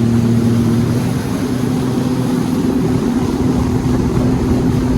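An engine running steadily under way, a droning tone over a heavy low rumble of wind or water.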